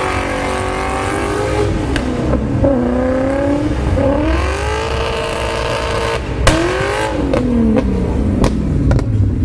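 V8-swapped BMW E36 Compact's V8 engine revving hard while drifting, its pitch rising and dropping again and again as the throttle is worked. A few sharp cracks cut through the revving.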